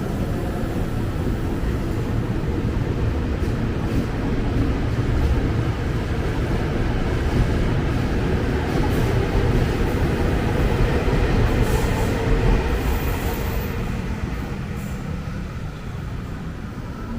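Ex-Tokyo Metro 6000 series electric commuter train running on the rails: a steady rumble and rattle that eases off over the last few seconds.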